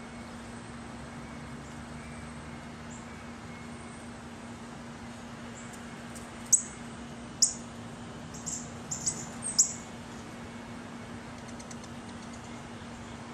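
About five short, sharp, high-pitched bird chirps in a loose cluster from about halfway through, over a steady low hum.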